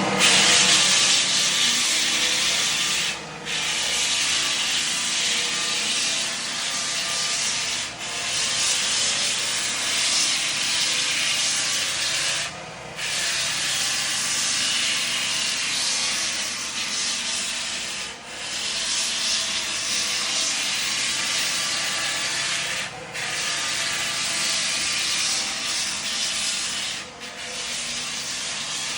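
A wooden board being abraded flat: a steady scraping hiss in long passes of four to five seconds each, broken by brief pauses.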